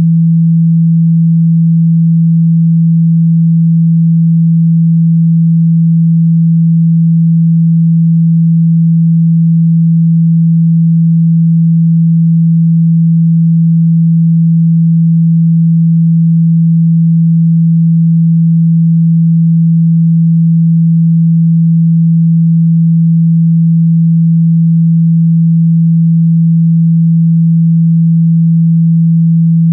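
A steady, loud 165 Hz sine tone, held unchanged: a speaker-cleaning tone meant to make a phone speaker's cone vibrate and shake out water and dust.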